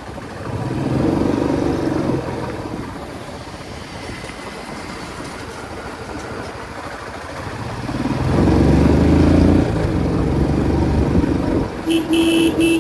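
Royal Enfield Classic 350's single-cylinder engine pulling hard twice while riding. Near the end a horn sounds in several short, repeated blasts.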